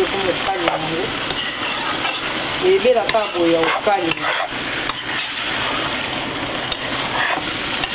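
Small fish sizzling as they fry in a tomato and onion sauce in a stainless steel pan, stirred with a metal spoon that scrapes and clinks against the pan. Brief wavering pitched sounds come through about three seconds in.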